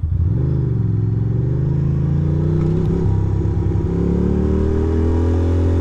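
Ducati Monster 620's air-cooled L-twin engine pulling under acceleration. Its pitch rises quickly just after the start, then keeps climbing slowly as the bike gathers speed.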